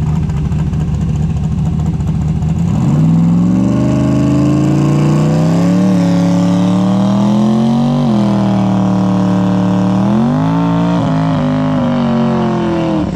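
Drag car engine idling, then revving up sharply about three seconds in and held at high revs for about ten seconds in a burnout, with a couple of brief dips and some wavering near the end before dropping back.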